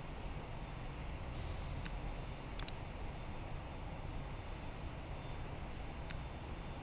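Steady low rumble of distant jet aircraft engines, with a few faint clicks and a brief hiss about a second and a half in.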